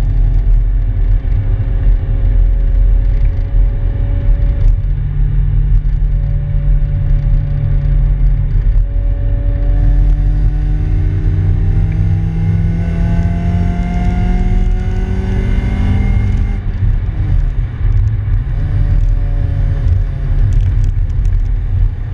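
Swapped Acura Integra GS-R 1.8-litre DOHC VTEC four-cylinder in a 1994 Honda Civic hatchback, heard from inside the cabin over heavy road rumble. The engine drones steadily while cruising, then from about ten seconds in pulls up through the revs with a rising note for around six seconds. The revs fall off suddenly and it settles back to a steady, lower drone.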